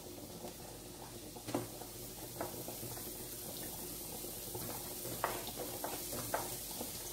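Chopped onions, garlic and ginger sizzling steadily in avocado oil in a frying pan, with a few light knocks as more pieces are scraped off a cutting board into the pan.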